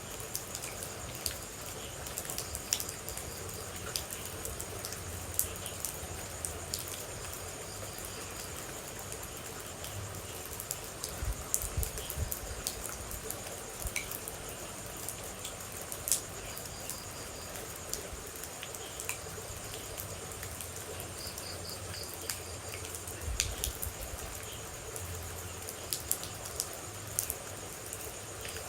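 Steady rain with water droplets dripping and tapping at irregular intervals, a few drops landing louder than the rest.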